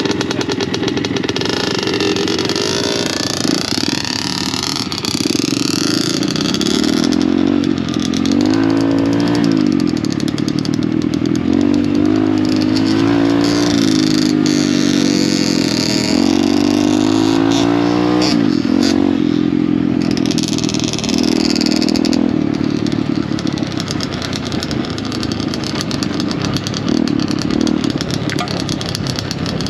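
Pit bike engine revving as the bike is ridden off-road, the engine note climbing and dropping again and again as the rider works the throttle and gears.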